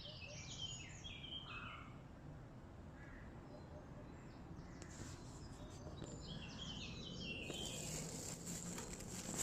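Birds chirping in short stepped phrases over steady background noise, with a second run of chirps past the middle.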